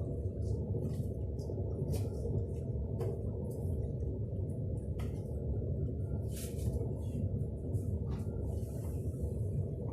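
Steady low rumble of a moving vehicle heard from inside, with faint scattered clicks and rattles above it.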